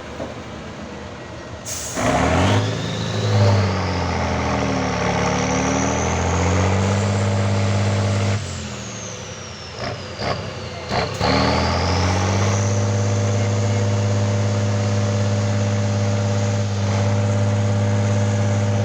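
Trial truck's engine revving hard under load, with a high whine that rises along with the revs. It climbs from about two seconds in, falls back around eight seconds, then climbs again from about eleven seconds and holds at high revs.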